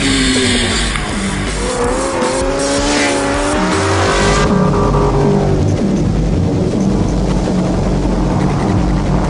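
A drifting vehicle's engine revs up and down with tyres squealing over background music. The engine and tyre noise fade out about four and a half seconds in, leaving the music.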